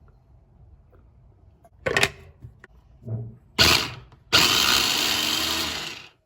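Small electric kitchen appliance motor run briefly in a short pulse, then run for nearly two seconds before stopping suddenly, preceded by a couple of knocks.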